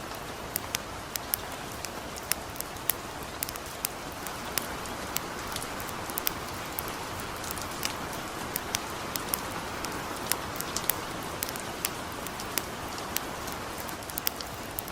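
Steady light rain with the frequent, irregular sharp crackles and pops of a burning wood fire.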